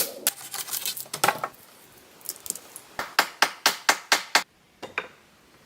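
Rapid runs of sharp knocks, about five a second, with a pause between two runs; the second run stops abruptly, followed by a couple of fainter knocks.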